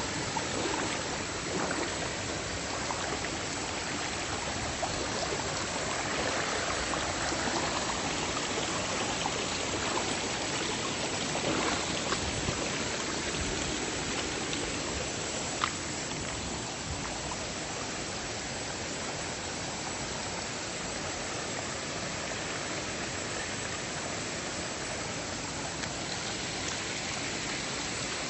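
River water rushing steadily over rocks, an even hiss with no let-up. A single short sharp tap about fifteen seconds in.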